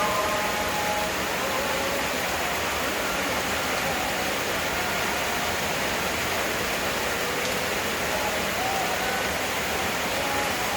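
Heavy rain falling, a steady dense hiss that holds at one level throughout.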